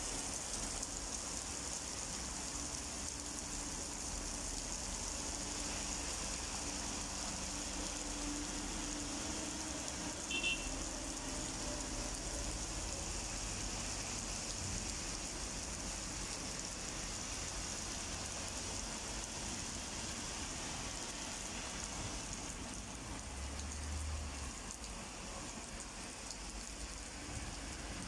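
Steady hiss of heavy rain falling on wet pavement, with a low rumble of cars driving through the wet street. A short high beep sounds about ten seconds in.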